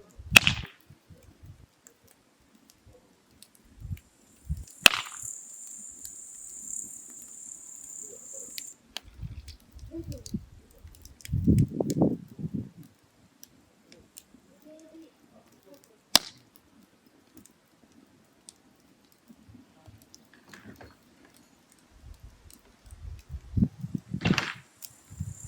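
Burning firewood crackling, with a few sharp pops spread out and stretches of quiet between them. Insects chirr at a high pitch for a few seconds after the second pop and again near the end, and there are low rumbles around the middle.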